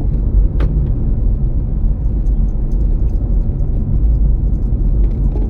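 Steady low rumble of a 2007 Toyota Prius driving along a road, heard from inside the cabin, with a faint click about half a second in.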